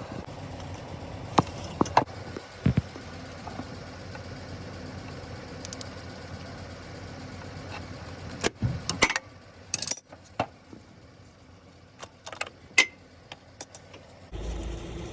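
Scattered sharp metallic clicks and clinks over a steady hum. The hum drops away about nine seconds in, and a lower rumble starts near the end.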